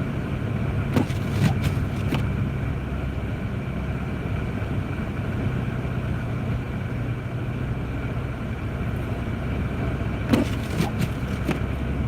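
Steady in-cabin drone of a Jeep Grand Cherokee driving, with engine and road noise and the heater blowing. A few sharp clicks come about a second in and again near the end.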